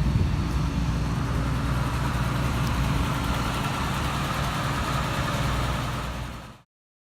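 1983 Dodge Ram pickup's engine idling steadily after a cold start. The sound cuts off abruptly near the end.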